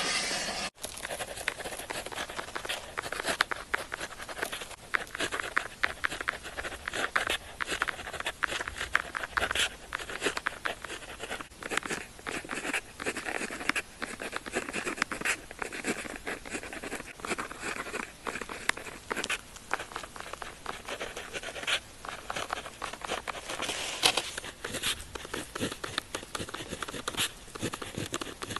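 Pen tip writing on paper: a steady, dense run of short scratching strokes.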